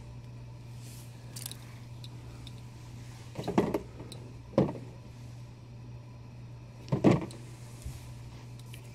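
Handling a collectible statue and its small parts: three short knocks and rustles, two close together and one a couple of seconds later, over a steady low electrical hum.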